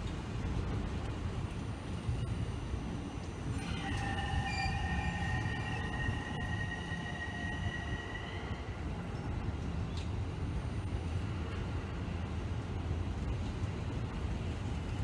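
Electric commuter train running on the rails with a steady low rumble. About four seconds in, a high, steady wheel squeal starts and lasts about five seconds.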